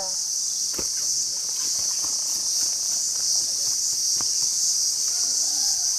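Steady, high-pitched chorus of insects buzzing without a break, with a couple of faint knocks and a faint distant voice near the end.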